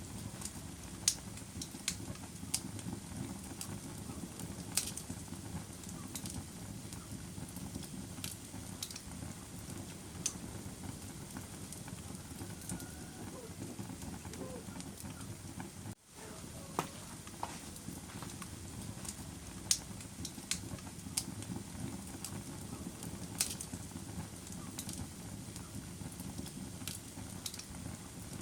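Wood fire in a fireplace burning with a steady low rumble and scattered sharp crackles and pops. The sound cuts out for a split second just over halfway through.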